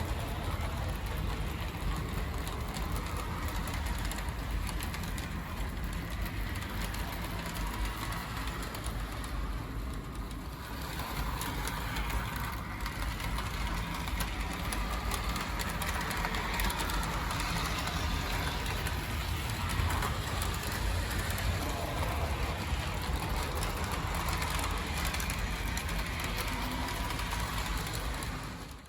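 Model electric train running steadily on its track: a continuous motor hum with rolling wheel noise, dipping briefly about ten seconds in and running a little fuller after.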